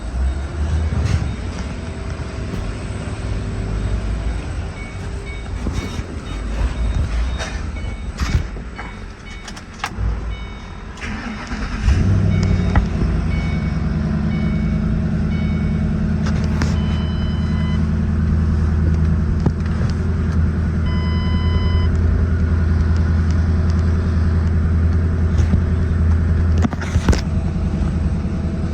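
2009 Ford Mustang 4.6L V8 catching about twelve seconds in after uneven rumbling, then idling steadily. The car's warning chimes beep repeatedly partway through.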